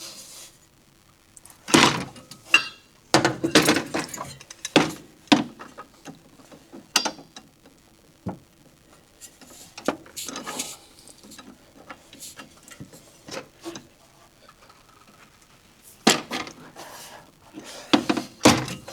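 Irregular metallic clanks and clicks of a breaker bar and socket on the crankshaft bolt of a seized 2.8 V6, as the engine is turned over by hand to free it. The clanks come in clusters, with quieter gaps between.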